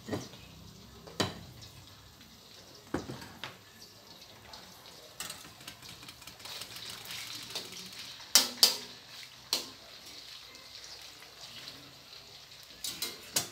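Pieces of sweet dried fish frying in oil over low heat in a stainless steel wok, a light sizzle that thickens after about five seconds. A metal skimmer knocks and scrapes against the wok several times, loudest in a quick pair a little past the middle.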